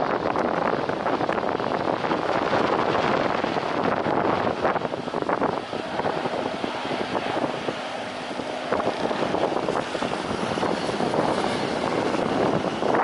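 Jet airliner engine noise, a steady rushing roar, with wind buffeting the microphone.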